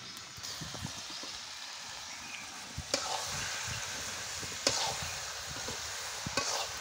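Beef and potato curry sizzling in a karahi over a wood fire while a metal spatula stirs and scrapes through it. The spatula knocks sharply against the pan about three times.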